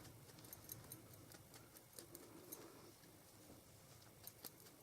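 Near silence with faint, irregular light taps and clicks, typical of an ink sponge dabbed around the edges of small paper snowflakes.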